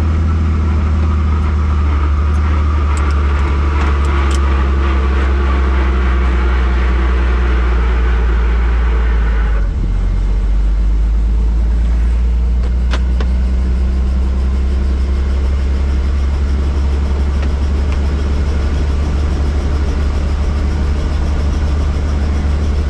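Helicopter engine and rotor running with a loud, steady low drone. About ten seconds in, the higher-pitched rushing part drops away suddenly while the drone carries on.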